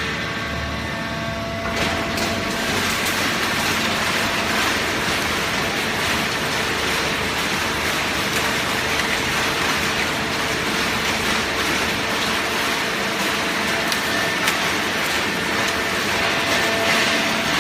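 Full-automatic plastic bottle baler running: a steady machine hum, joined about two seconds in by a loud, dense rattling noise that carries on steadily.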